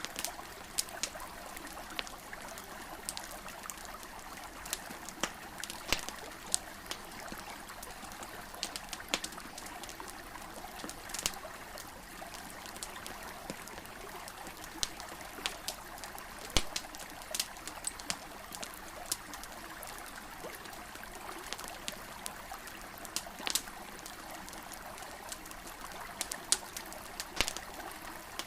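A wood campfire crackling, with irregular sharp pops, over the steady rush of a river.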